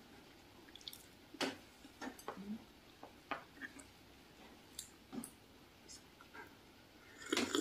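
Close-up mouth sounds of eating soft bread: faint, scattered wet clicks and lip smacks of chewing, followed by sipping coffee from a mug. The loudest sound is a short noisy burst near the end.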